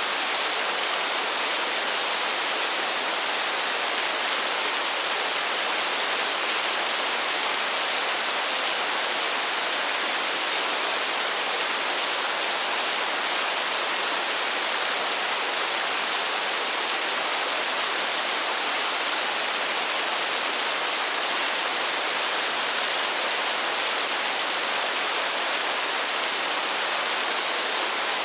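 Steady, even rain falling, a continuous hiss with no separate drops or pauses standing out.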